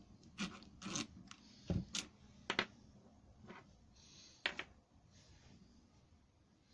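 Hand tools and small parts being handled while taking the carburettor off a hedge trimmer: a handful of sharp clicks and knocks with light scraping, the loudest a little under two seconds in and again just after.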